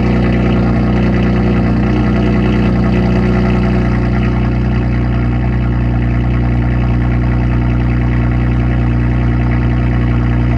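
2005 Acura TL's V6 idling steadily just after a cold start.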